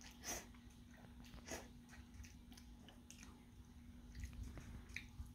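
Quiet chewing of a mouthful of instant noodles, with a few soft, scattered mouth clicks over a faint steady hum.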